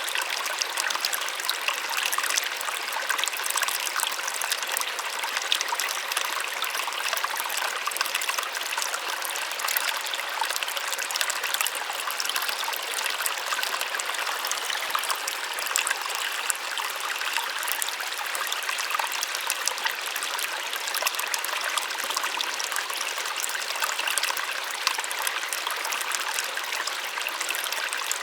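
Small waterfall splashing steadily, an even, light rush with little low rumble and many fine splashes.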